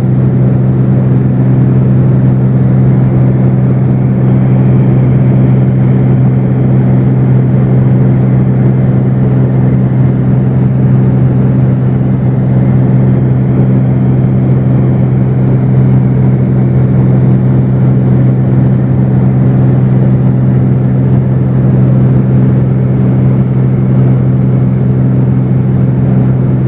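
Cessna 210's six-cylinder piston engine and propeller droning steadily in flight, with a constant low hum that does not change pitch or level.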